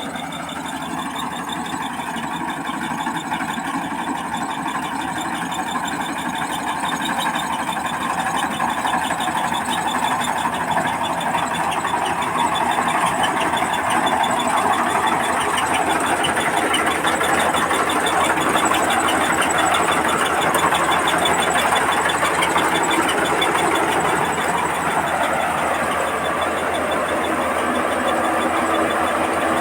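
Combine harvester running under load while harvesting rice: a steady engine hum with a rapid, even clatter from the machinery. It grows gradually louder over the first half, then holds steady.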